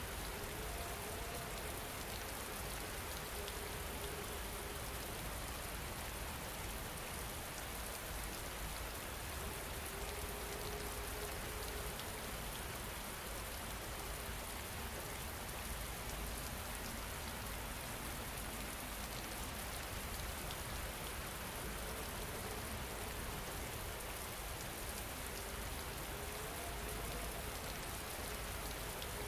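Steady rain falling and pattering, an even unbroken hiss. Faint soft held tones rise out of it every now and then.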